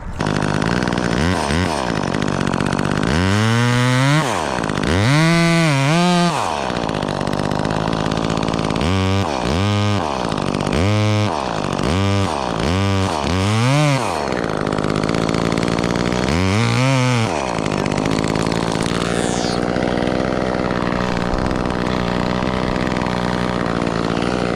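Gas chainsaw running, revved up and down about a dozen times for the first 18 seconds, then held at a steady speed. It is cutting into a large fir tree being taken down piece by piece.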